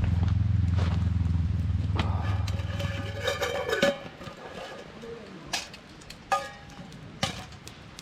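Motorcycle engine idling steadily, then switched off about four seconds in. Three sharp clicks or knocks follow.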